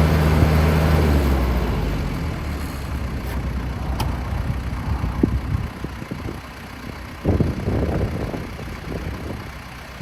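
New Holland T2320 compact tractor's diesel engine running, loud and steady at first, then dropping off about a second in to a quieter, uneven sound. A few sharp clicks and short clunks come later.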